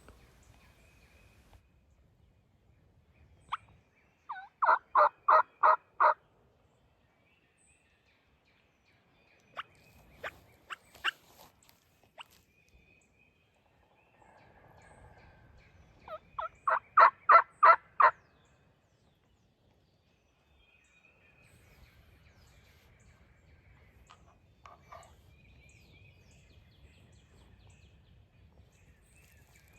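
Hen turkey yelping on a hunter's turkey call, aimed at coaxing in hens: two runs of seven or eight quick yelps, about four a second, the second run swelling louder. A few fainter, scattered calls fall between them.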